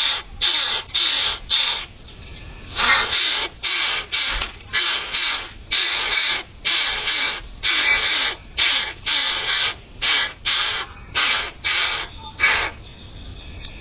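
Coucal (burung but-but) giving a long series of harsh, rasping calls at about two a second, with a short pause near the start.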